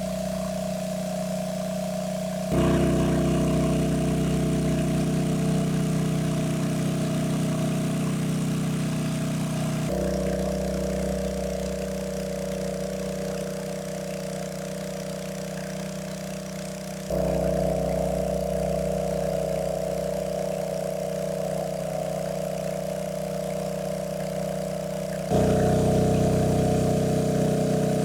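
A small engine running steadily at a fixed pitch, in stretches joined by abrupt cuts about every seven seconds, each shifting the pitch and loudness slightly.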